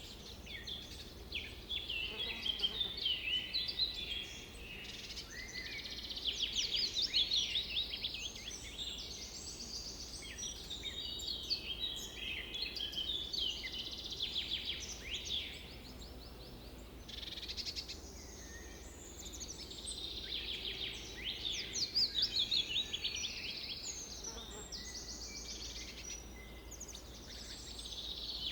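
Many songbirds singing at once: a dense chorus of overlapping chirps and rapid trills, over a faint steady low hum.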